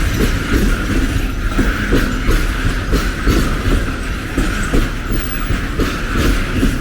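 Train passing at close range: a steady rumble with rapid, irregular knocks of wheels running over the rail.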